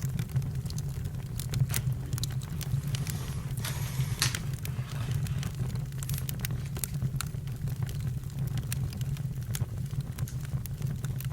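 Campfire crackling: irregular sharp pops and snaps over a steady low rumble, with a short hiss about three and a half seconds in.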